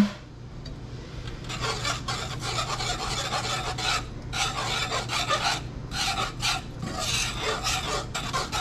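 A whisk scraping rapidly against the bottom of a pan, stirring gravy as the milk goes in. The quick, uneven strokes start about a second and a half in, over a steady low hum.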